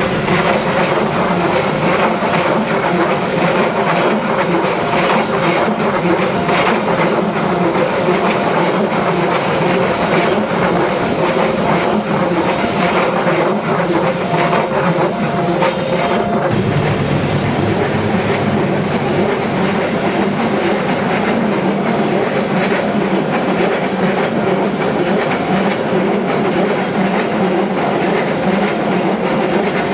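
A train passing close by, with a loud, steady rolling noise from wheels on rails that lasts the whole time.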